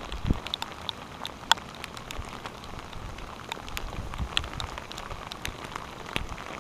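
Rain falling, with drops ticking irregularly and sharply on a nearby surface over a steady hiss, and a couple of low thumps in the first half-second.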